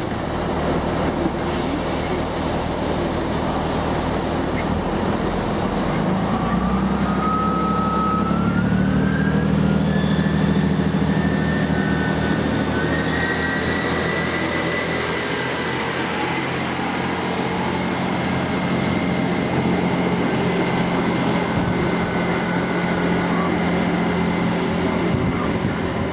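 Diesel multiple-unit train pulling away: the engine note steps up several seconds in, and a whine rises in pitch as the train gathers speed, then holds steady.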